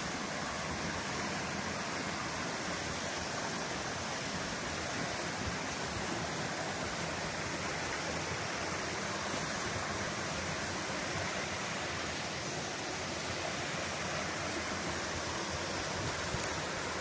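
A waterfall's steady rush of water, even and unbroken throughout.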